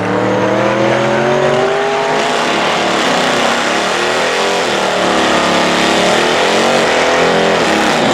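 Muscle car engines at full throttle on a drag strip, pitch climbing over the first couple of seconds, then a loud, steady mix of engine and tyre noise.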